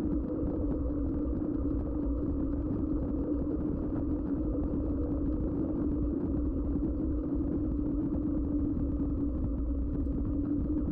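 Mountain bike rolling at a steady speed on Schwalbe tyres: a steady hum from the tyres over a low, fluctuating rumble.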